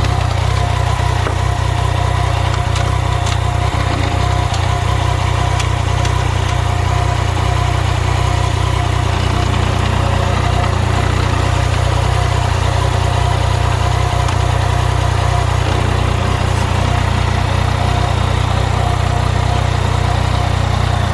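Yamaha MT-09 (FZ-09) motorcycle's inline three-cylinder engine idling steadily.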